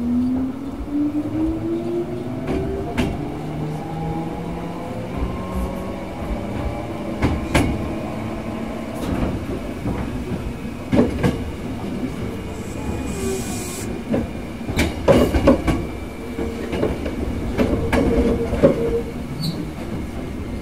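Hankyu 6300 series electric train heard from inside the car. The motor and gear whine rises in pitch over the first few seconds as the train gathers speed. After that the wheels clack over rail joints, with repeated sharp knocks through the middle and later part.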